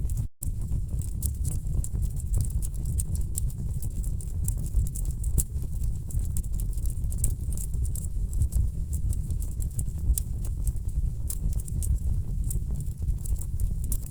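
Wood fire crackling: frequent irregular pops and snaps over a low steady rumble of burning logs, with a momentary break in the sound just after the start.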